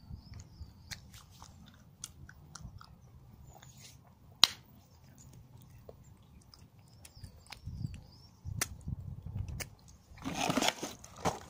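Chewing and crunching a mouthful of chocolate Easter egg, with small scattered crackles and one sharp click about four and a half seconds in. Near the end comes a short burst of rustling as the egg's cardboard box is handled.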